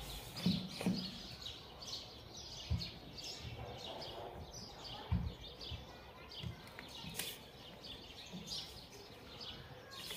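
Birds chirping faintly in short repeated calls, with a few dull low thumps.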